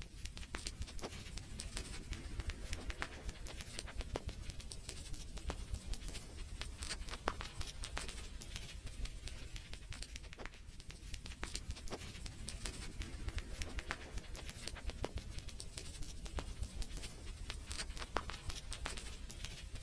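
Fireplace crackling: frequent irregular sharp pops and snaps from burning wood over a low steady rumble.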